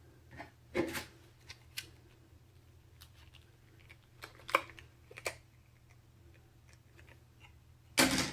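Scattered clicks and taps of computer parts being handled, with a louder clatter near the end, over a low steady hum.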